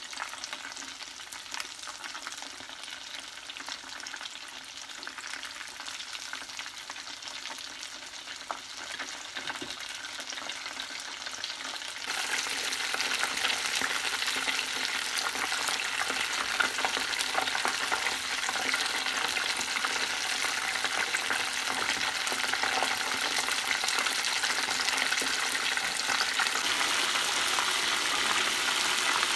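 Breaded chicken cordon bleu rolls frying in hot oil in a pan: a steady crackling sizzle with fine pops. It becomes louder abruptly about twelve seconds in.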